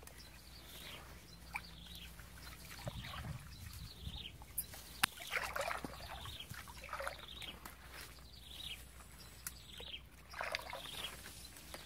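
A bird calling in short descending chirps, repeated about once a second, over faint brushing of leaves and footsteps along a wet path. A single sharp click comes about five seconds in.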